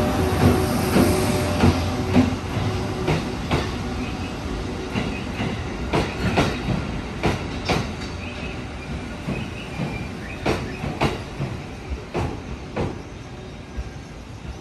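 A train moving away, its wheels clacking over rail joints and points in uneven groups of sharp clicks that grow steadily fainter as it recedes.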